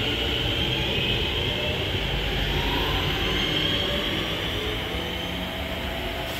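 Class 323 electric multiple unit moving along the platform: a steady rumble of wheels on rail with a high whine held through it.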